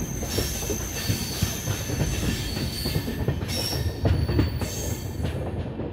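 Passenger express train running along the track, heard from on board: a steady rumble with irregular knocks and clatter from the wheels and a thin, high, steady whine.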